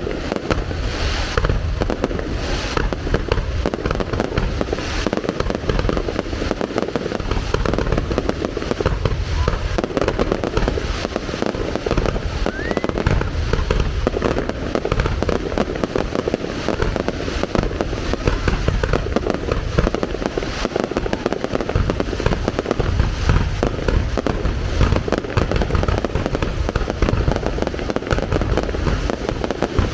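Fireworks display going off: a dense, unbroken run of bangs and booms with crackling.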